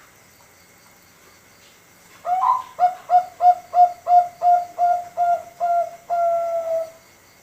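Male zebra dove (perkutut, Thai 'bangkok' line, five months old) singing one full song, the big-voiced song bred for competition: an opening phrase about two seconds in, then about ten short coos, three a second, ending on one longer held note.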